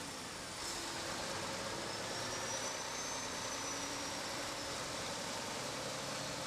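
Truck engine running steadily over an even hiss of rushing air.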